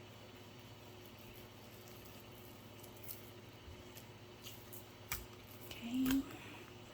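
Faint wet squishing and small clicks of raw chicken pieces being handled. About six seconds in there is a short low pitched sound, the loudest moment.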